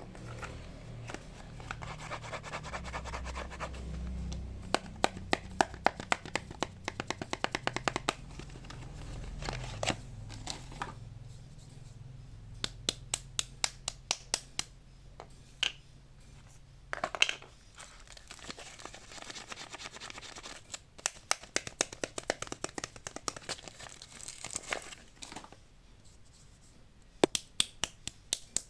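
Soap bars being unwrapped by hand: paper and plastic wrappers crinkling and tearing, with many sharp clicks and taps on the packaging, some in quick runs.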